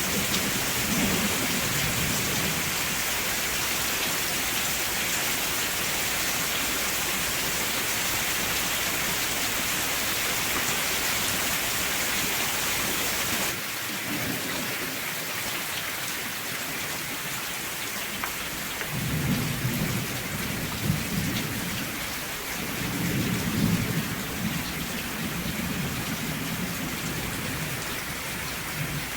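Steady heavy rain hissing, with low rolls of thunder rumbling briefly near the start and several times in the second half.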